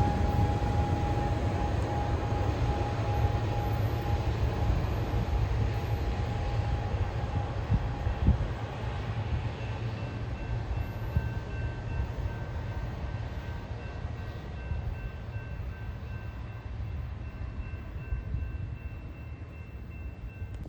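A train rolling past and moving away, its low rumble and rail noise slowly fading. A steady high tone sounds over it and dies out about nine seconds in.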